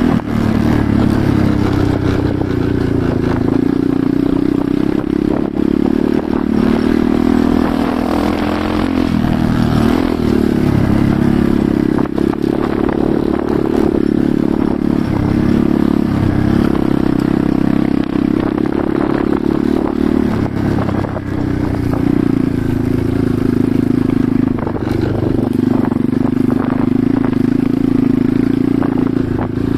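Enduro motorcycle engine running under way, its pitch rising and falling with the throttle, with frequent knocks and rattles.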